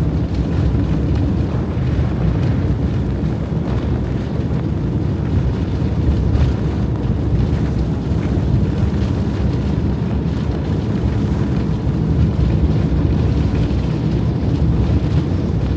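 Strong blizzard wind buffeting the microphone: a loud, steady low rumble.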